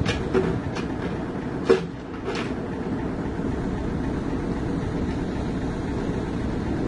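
Heavy diesel machinery running with a steady low rumble, with a few sharp knocks in the first couple of seconds, the loudest a little under two seconds in.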